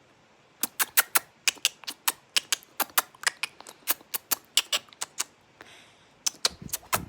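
A rapid, irregular run of short, sharp clicks or taps, about three to five a second, pausing briefly near the end and then starting again.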